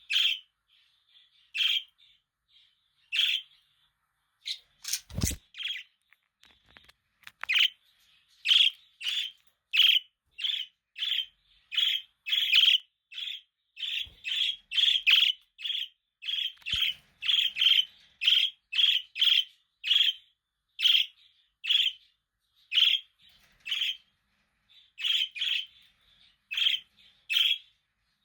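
Budgerigars chirping in short, sharp chirps. The chirps are spaced out at first, then settle into a steady run of about two a second from about eight seconds in. There is a single knock about five seconds in.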